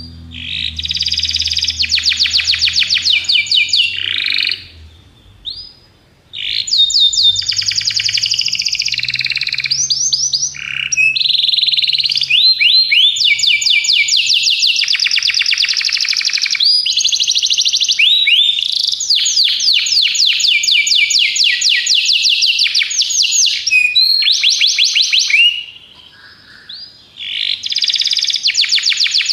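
Domestic canary singing long runs of rapid rolling trills and whistled notes, broken by two short pauses.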